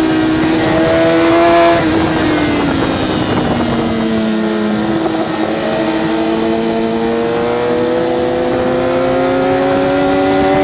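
Sport motorcycle engine heard from on board at speed: the revs drop sharply about two seconds in as the throttle is eased off, sink for a few seconds, then climb steadily back up, with steady wind rush throughout.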